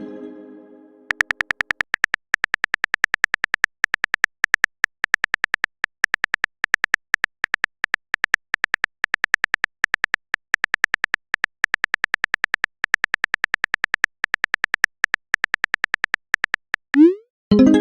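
Typing sound effect: a quick run of short, high clicks in uneven bursts, several a second. Near the end a rising pop sounds, like a message-sent notification.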